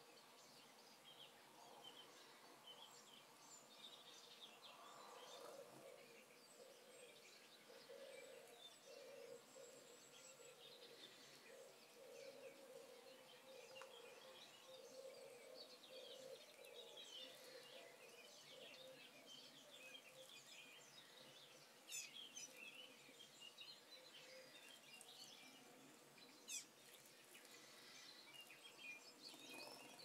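Faint chirps and twitters of small birds over a quiet hiss, with a few sharp clicks about two-thirds of the way through and again near the end.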